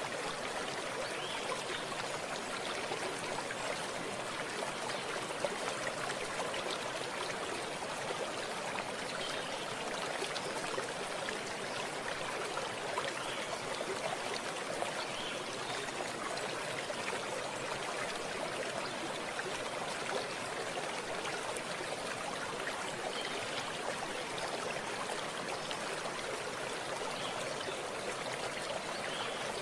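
Running stream water flowing steadily, an even continuous rush.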